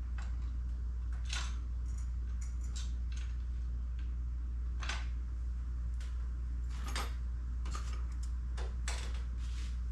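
Scattered metal clicks and clinks of hand tools and jack parts being handled during assembly of a transmission jack, a few a second at most and irregular, over a steady low hum.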